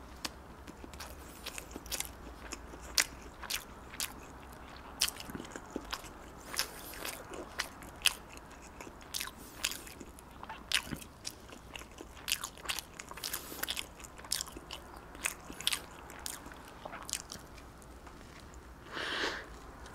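Close-miked chewing of soft bread, with many sharp wet mouth clicks and smacks, and a louder bite into the bread near the end.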